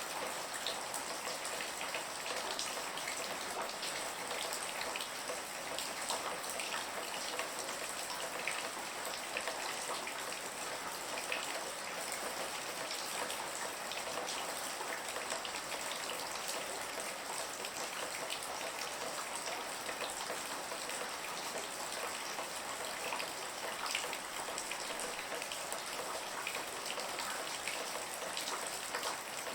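Steady rain falling, with many close raindrops pattering on a surface.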